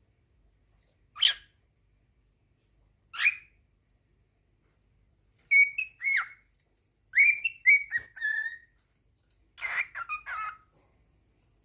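Cockatiel calling and whistling: two short single calls a couple of seconds apart, then three bursts of quick whistled notes that glide up and down in pitch. A brief sharp click comes partway through the whistling.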